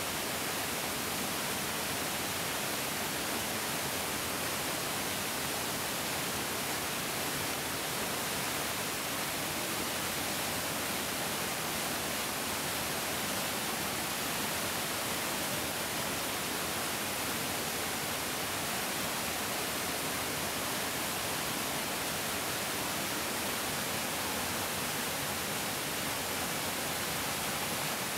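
Mountain stream flowing: a steady, even rush of water with no pauses or changes.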